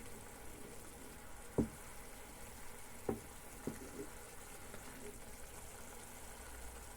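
Vegetables frying gently in a pan on an electric hob, a faint steady sizzle as they wilt down, with three short knocks about a second and a half, three, and nearly four seconds in.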